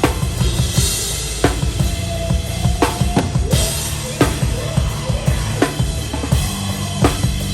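Hardcore band playing live, heard close to the drum kit: rapid, dense kick drum strokes under cymbal wash, with a hard snare hit about every second and a half, and sustained pitched band notes in the background.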